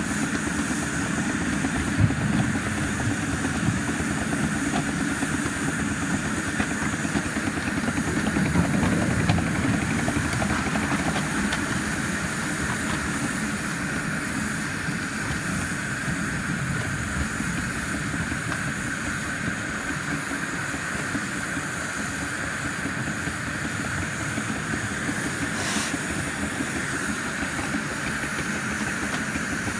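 7¼-inch gauge live-steam model of a Baldwin C-19 locomotive running, with a steady hiss of steam over a low rumble of wheels on the rails.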